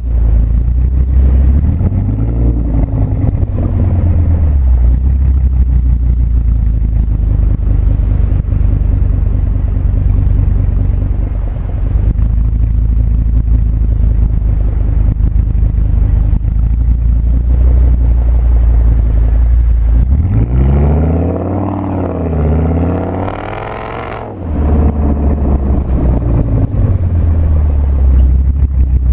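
Audi S8 with a Meisterschaft exhaust running loud, a deep steady drone as the car drives. A few seconds in the engine note rises and falls once. About two-thirds of the way through it revs up and down in several quick sweeps before settling back into the drone.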